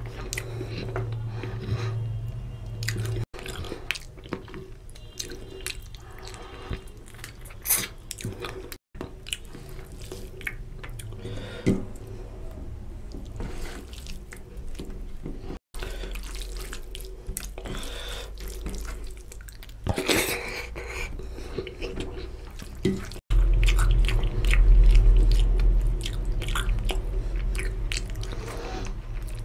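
Close-miked wet chewing, biting and lip-smacking as mutton curry and rice are eaten by hand, with squelches of fingers mixing rice into the oily gravy. A steady low hum runs underneath and swells about three-quarters of the way through.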